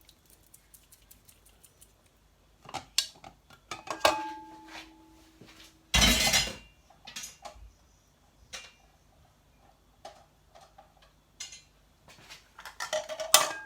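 Kitchen utensils and bowls clinking and knocking as they are handled, one knock leaving a short ringing tone. A louder, noisier burst of just under a second comes about six seconds in, and a quick run of clatter near the end.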